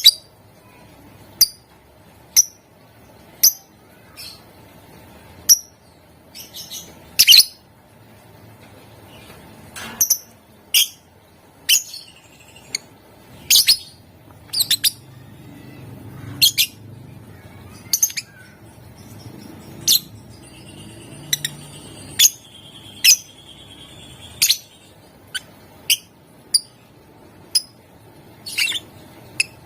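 Lovebird giving sharp, shrill single chirps at irregular intervals, about one a second, with a few short chattering runs about seven seconds in and again around twenty seconds.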